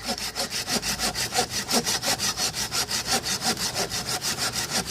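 Short hand saw cutting through a wooden log in rapid, even back-and-forth strokes, biting freely into the wood.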